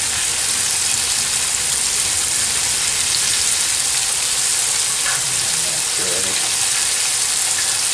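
Battered squirrel pieces frying in a skillet of hot grease: a steady sizzle with the grease crackling and popping.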